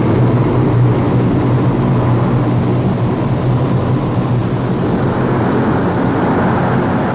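Steady drone of a Lockheed C-130 Hercules's four turboprop engines in flight.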